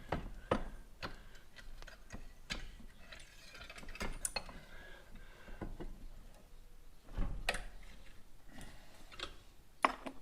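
Scattered light clicks and knocks of metal motorcycle fork parts and tools being handled on a workbench, irregular rather than a steady ratchet rhythm.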